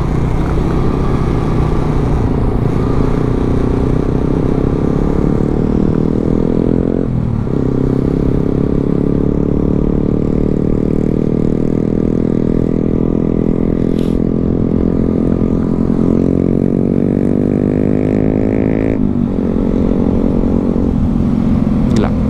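2017 Suzuki GSX-S150's single-cylinder engine pulling under way, its pitch climbing slowly as the bike gathers speed, with sharp drops at upshifts about seven and nineteen seconds in.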